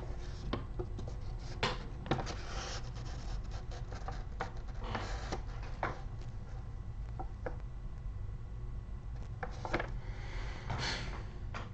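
Quiet room tone with a steady low hum, broken by scattered faint rustles and soft clicks.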